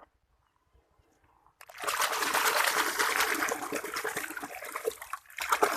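Water pouring and splashing over a muddy toy vehicle as it is washed clean. It starts suddenly about a second and a half in and breaks off briefly near the end.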